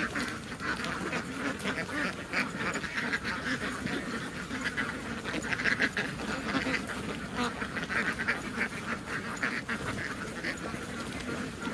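A large flock of domestic ducks quacking, with many calls overlapping into a continuous din.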